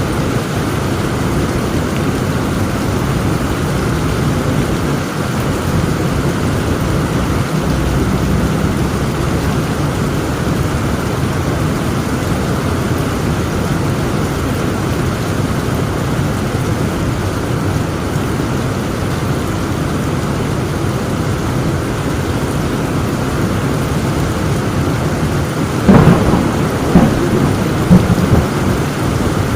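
Heavy rain falling steadily in a thunderstorm, with a sharp, loud crack of thunder near the end followed by a few more quick cracks.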